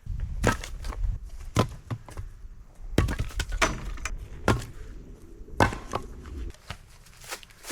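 An axe chopping and splitting firewood logs: about half a dozen sharp wooden strikes, roughly a second apart.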